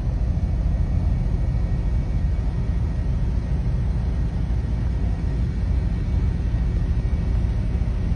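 Heavy rain falling: a loud, steady rush with a deep rumble underneath.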